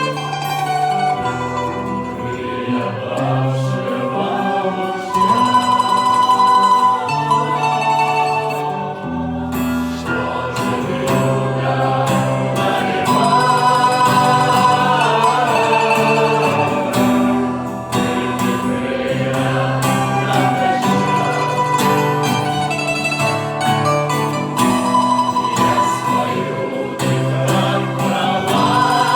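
A trio performing a song arrangement: singing voices over plucked string instruments, with a sustained bass line underneath.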